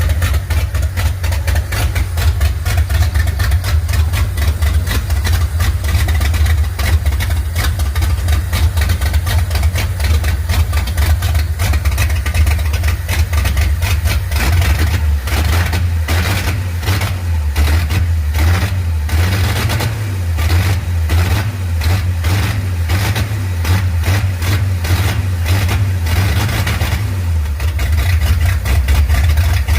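Old car engine idling, running healthily after twenty years laid up. It has a pulsing idle, which becomes more marked about halfway through, and sounds like it has a performance camshaft.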